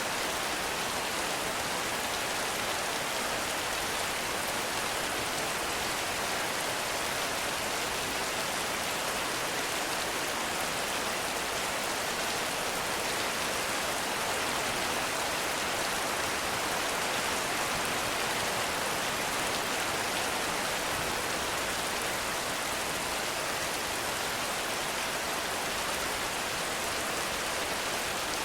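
Heavy rain falling steadily, an even hiss of rain with no thunder or distinct drops standing out.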